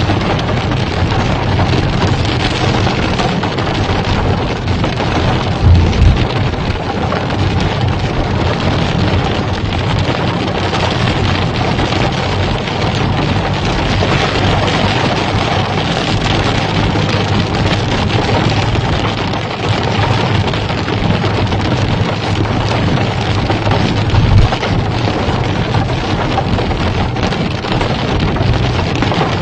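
Heavy rain pouring steadily, a loud, even hiss. Twice, about six seconds in and again about five seconds before the end, a brief low thump stands out above it.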